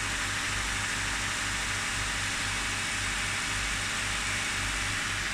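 Honda D15Z6 four-cylinder petrol engine idling steadily with an even low pulse. The cold-start knock is practically inaudible now that the engine has run for about half a minute.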